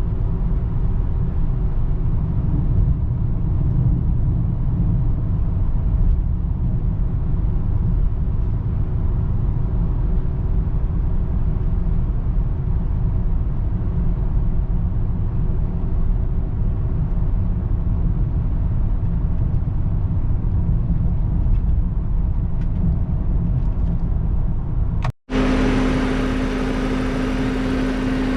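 2003 BMW 525i's 2.5-litre straight-six car on the move: a steady low rumble of engine and road. About 25 seconds in there is a sudden cut, and the engine is then heard running steadily with a constant hum.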